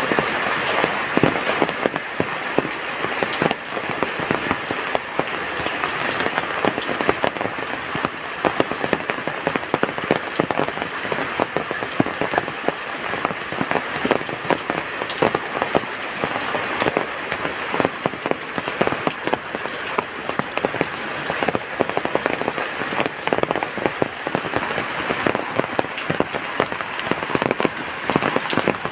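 Heavy rain falling steadily: a dense hiss packed with the taps of individual drops striking surfaces.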